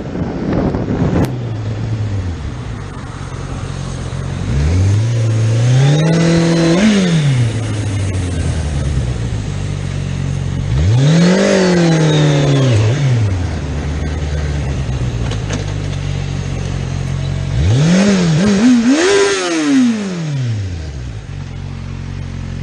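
A vehicle engine running steadily, then revving up and easing off three times, the last time in quick stepped rises before falling away. Wind noise on the microphone near the start.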